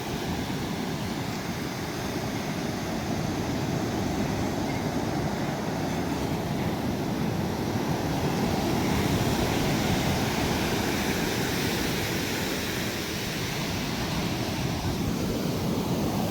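Ocean surf washing onto a sandy beach: a steady rushing that swells broadly around the middle and eases again, with a low rumble that may include wind on the microphone.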